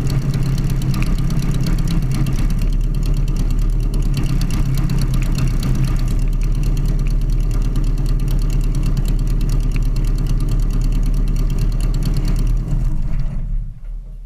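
Sonerai light aircraft's Volkswagen-based air-cooled flat-four engine running steadily with a low drone, during its break-in period. The sound fades away over the last second or two.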